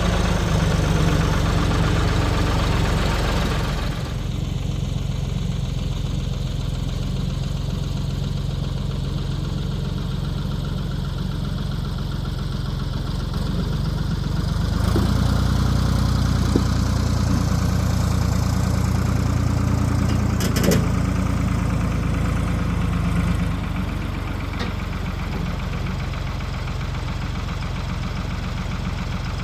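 1973 Ford 4500 backhoe's diesel engine running steadily. It drops to a lower, quieter note about four seconds in, comes up again around fifteen seconds, and settles back down near twenty-four seconds, with a brief click around twenty-one seconds.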